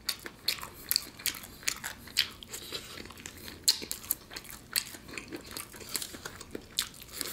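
Close-up chewing and biting of a crispy fried chicken drumstick: irregular crunches and wet mouth clicks, about two or three a second.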